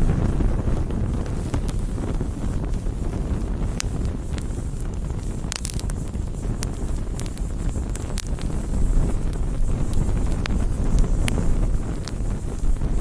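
Wood campfire burning: a steady low rumble of flames with scattered sharp crackles and pops from the burning wood, a quick cluster of pops a little past halfway.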